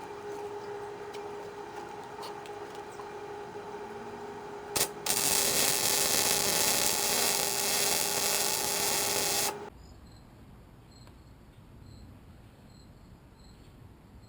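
Electric arc welding on steel: a steady hum, then a click and about five seconds of loud, even hissing arc noise that stops abruptly.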